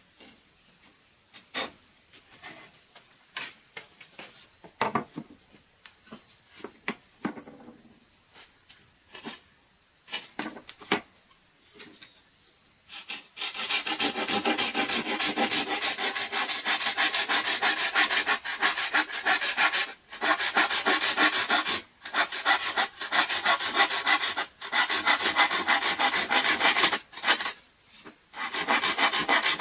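Scattered light knocks and taps, with a steady high insect chirr behind them. About 13 seconds in, a hand tool starts rasping steadily on raw wood, in runs broken by short pauses every couple of seconds.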